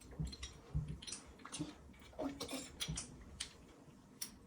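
Scattered light clicks and taps from handling the parts of a toilet tank flush lever.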